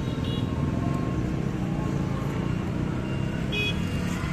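Street traffic ambience: a steady low rumble of passing vehicles, with two short high beeps, one just after the start and one near the end.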